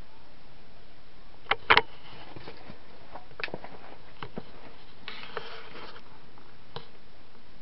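Vintage cast-iron-motor industrial ceiling fan running on low speed with a steady, even hiss. A few sharp clicks come about a second and a half in, and fainter scattered ticks follow.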